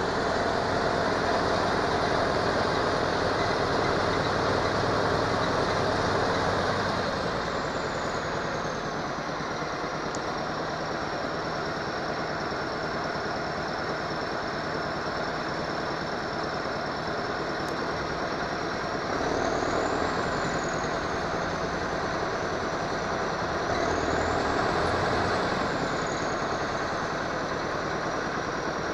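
KAMAZ truck's diesel engine running under load, its revs dropping back about a quarter of the way in and picking up twice later. A high whine rises and falls with the revs.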